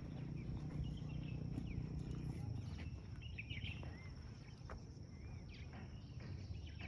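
Outdoor rural ambience: scattered short bird chirps over a low, steady rumble, with a faint thin high tone held throughout.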